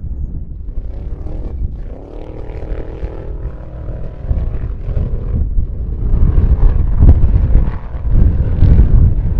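A motor engine rising in pitch, then holding a steady note, under heavy low wind rumble on the microphone that grows louder in the second half.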